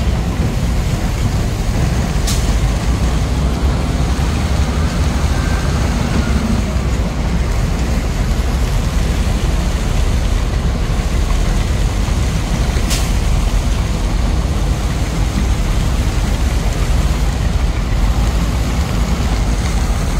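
Heavy truck engine running steadily while driving, with constant low-pitched drive noise and two brief high clicks about ten seconds apart.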